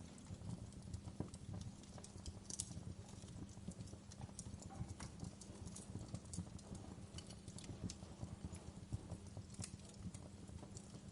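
Wood fire crackling: irregular sharp snaps and pops over a low, steady rumble of burning logs, with a louder snap about two and a half seconds in and another near the end.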